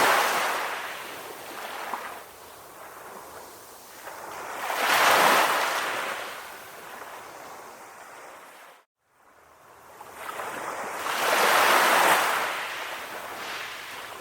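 Calm ocean waves washing onto a shore: three surges swell and fade about six seconds apart, with a short cut to silence about nine seconds in.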